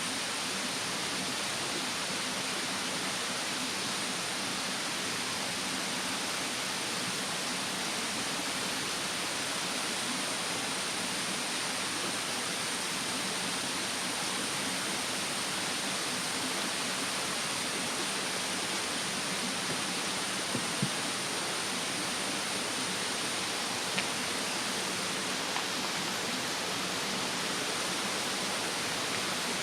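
Steady rushing of a mountain stream, with a few faint pops from a wood campfire in a fire stand about two-thirds of the way in. A thin high insect drone runs over it and fades out near the end.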